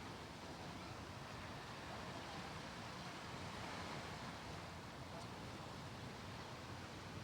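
Steady outdoor ambient noise, an even wash with no distinct events, swelling slightly around the middle.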